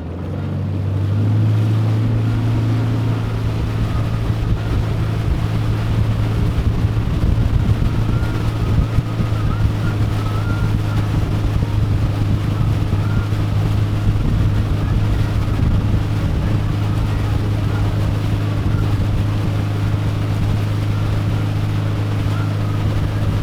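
Motorboat engine running steadily, with a low even drone that gets louder about a second in as the boat speeds up. Wind buffets the microphone.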